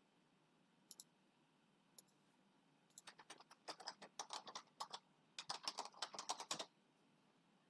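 Computer keyboard typing, faint: a few single keystrokes, then two quick runs of keystrokes about halfway through.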